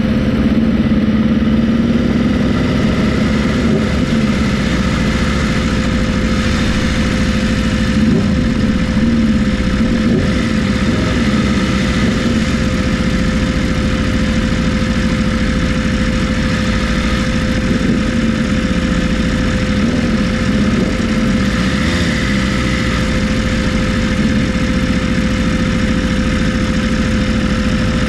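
Motorcycle engine running steadily, its pitch wandering a little up and down, with a constant steady whine over it.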